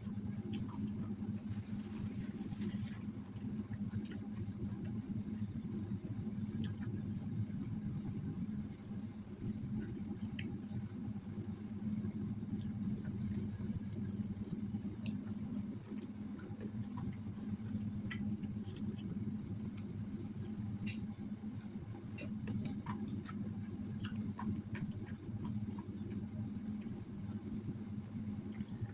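Eating sounds: chewing, with many small scattered clicks, over a steady low hum.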